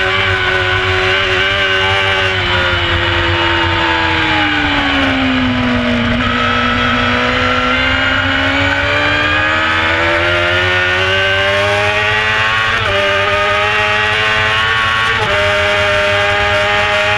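Carburetted 600cc inline-four sports bike engine at racing speed, with wind rushing over the bike. The engine note drops as the bike slows into a bend, then climbs steadily on the way out, with two quick gear changes near the end.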